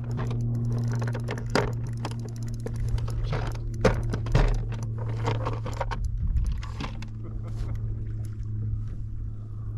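Electric trolling motor of an Old Town AutoPilot 120 kayak running steadily on spot lock to hold position, a low even hum. Irregular sharp clicks and knocks come over it during the first two-thirds.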